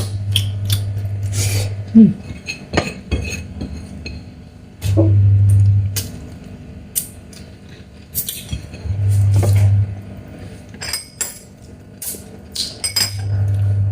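Eating Chinese mitten crab: a string of sharp cracks, clicks and clinks from the shell and the dishes, with a low hum that comes and goes in patches of a second or two.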